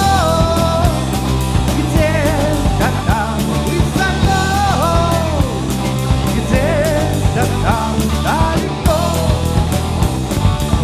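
Live rock band playing an instrumental passage: a steady drum beat under bass and guitars, with a lead melody line that slides between notes.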